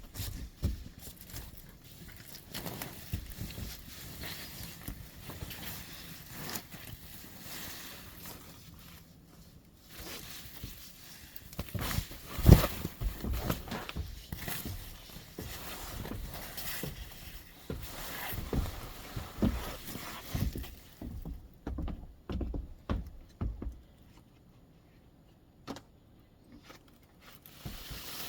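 Outdoor furniture being carried and set down: irregular knocks, bumps and scrapes with footsteps, and one loud bang about twelve seconds in. The knocking thins out and goes quieter in the last several seconds.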